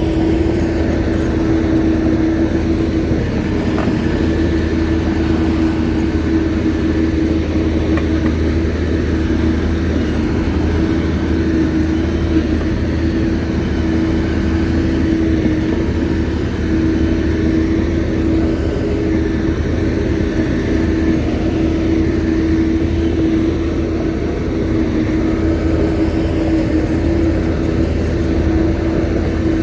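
Shantui bulldozer's diesel engine running steadily, a low rumble with one steady tone held over it.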